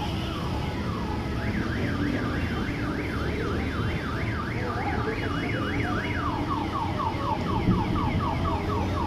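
Car alarm sounding: a fast rising-and-falling warble, about three sweeps a second, that switches about six seconds in to a rapid run of falling chirps. A steady low rush of noise runs underneath.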